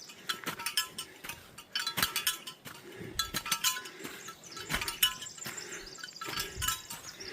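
Bear bells on a hiker's pack jingling with each walking step, in a quick, uneven run of small metallic rings.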